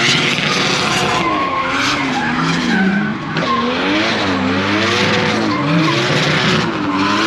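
A drift car sliding on track: its engine revs rise and fall over and over, about once a second, over steady tyre squeal.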